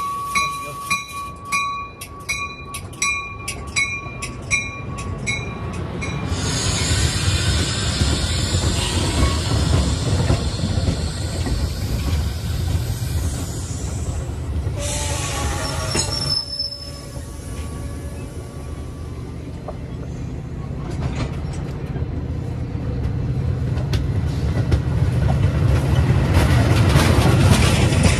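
Metra bi-level commuter train departing past the platform. A warning bell rings about twice a second for the first five seconds. Then the cars roll by with a growing low rumble and hiss of wheels on rail, and a brief high wheel squeal about halfway through.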